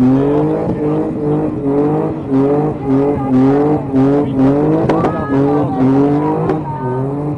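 Car engine revved in quick repeated blips, about two a second, each rising in pitch and then dropping back, over a steady engine running underneath.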